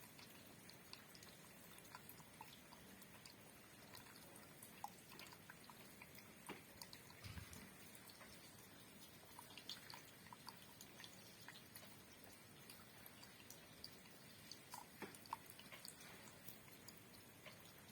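Faint rain with scattered raindrops dripping and ticking irregularly over a soft hiss, and one low thump about seven seconds in.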